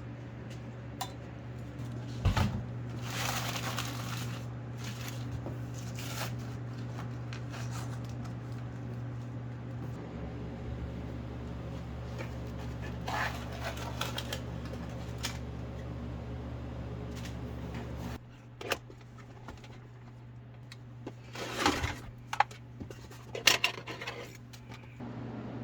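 Scattered knocks, clacks and rustles of gear being handled and cleaned, over a steady low hum that stops about 18 seconds in. The loudest knocks come about two seconds in and in a cluster near the end.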